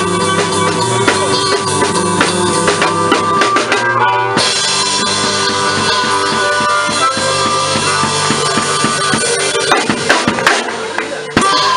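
A live blues band playing with a drum kit prominent, steady beat over bass and guitar. The sound changes abruptly about four seconds in, and the playing thins out near the end.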